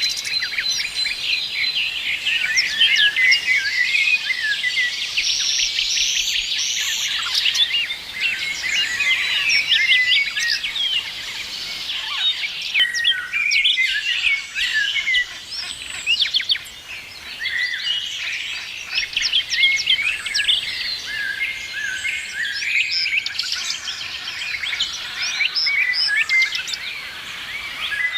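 Many songbirds chirping and singing together, a dense, unbroken chorus of short high chirps and trills.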